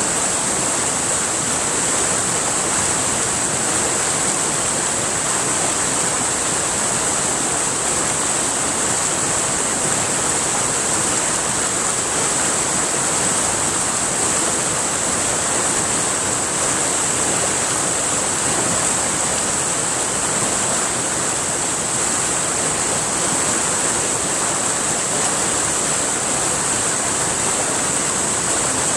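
River water flowing steadily, with a constant high-pitched whine above the rush of the water.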